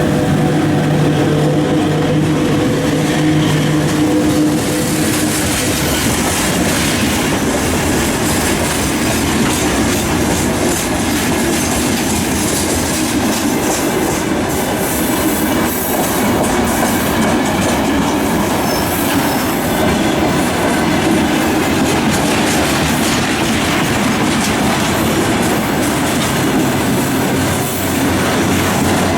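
Container freight train rolling past at close range, its wheels clattering over the rail joints with some wheel squeal. A steady hum in the first four seconds stops.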